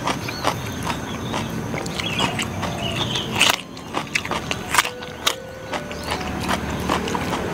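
Close-up crisp crunching and chewing of raw vegetable, with a few sharp, loud bites standing out among irregular smaller crunches.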